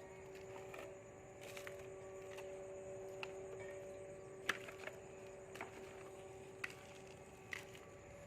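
Scattered light knocks and clicks, one sharper than the rest about four and a half seconds in, over a faint steady hum.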